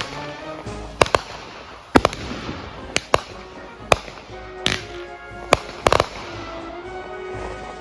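Consumer fireworks going off in a string of sharp bangs, roughly one or two a second at uneven spacing, with background music running under them.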